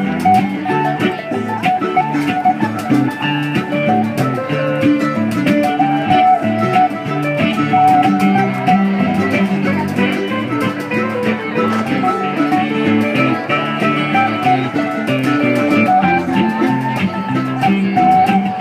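Live band playing an instrumental passage: plucked guitar and mandolin over congas, with a steady beat and no singing.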